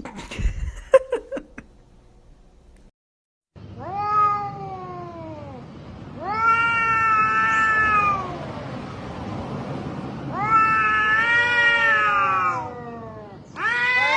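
A few sharp knocks in the first two seconds, then, after a brief silent break, a cat yowling: four long, drawn-out cries a couple of seconds apart, each falling in pitch at its end.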